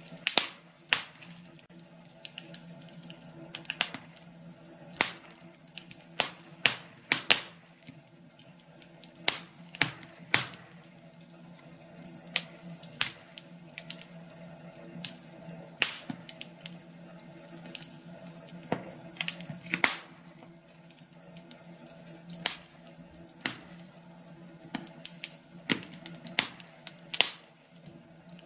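Wood fire crackling in a fireplace: irregular sharp pops and snaps, some much louder than others, over a faint steady background.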